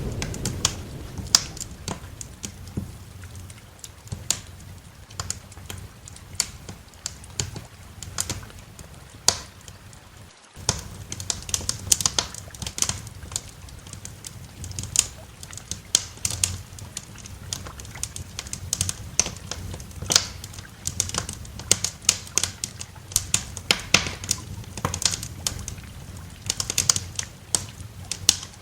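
Wood fire crackling, with many irregular sharp pops and snaps over a faint low rumble. A roll of thunder is dying away at the very start, and the sound drops out completely for a moment about ten seconds in.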